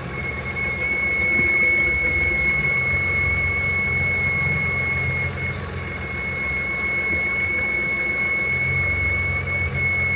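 BMW engine idling with a steady high-pitched squeal on top of the low engine hum. It is an intermittent squeak that has come back once the engine is warm; the owner suspects something scraping and cannot tell whether it is an idler pulley, the alternator or the camshaft.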